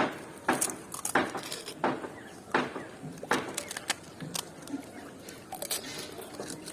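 Crisp fuchka (pani puri) shells cracking and crunching as they are bitten, a run of sharp crunches about one every half-second to second, fainter and more scattered in the second half.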